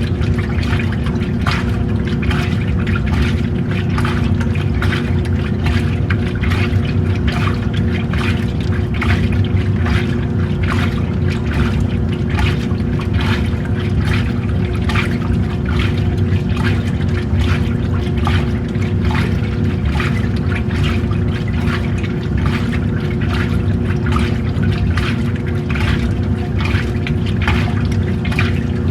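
Old-style washing machine running a wash: a steady motor hum under water and clothes sloshing and splashing in the tub.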